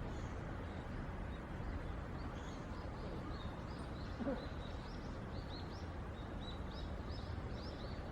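Small birds chirping, many short high notes repeated again and again, over a steady low outdoor rumble, with one brief low sound about four seconds in.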